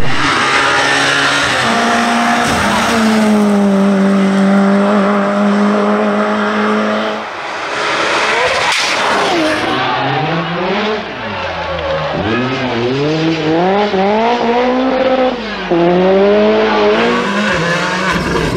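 Rally car engine running at high revs: the pitch is held steady for several seconds, then sweeps up and drops again and again as the car accelerates, shifts gear and lifts for corners.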